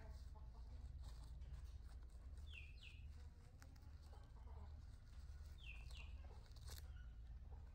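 Faint bird calls: a pair of short falling notes, heard twice about three seconds apart, over a low steady rumble.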